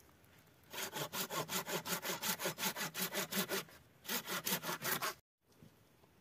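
Hand saw cutting wood in quick back-and-forth strokes, about five or six a second, in two runs with a short pause about four seconds in; the sound cuts off abruptly near the end.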